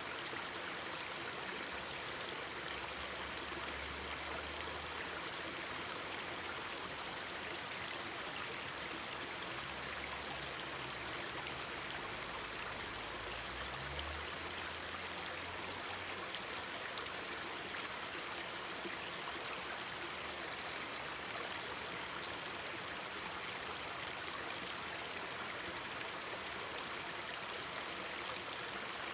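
Mountain stream babbling steadily over rocks, with a low rumble coming and going in the first half.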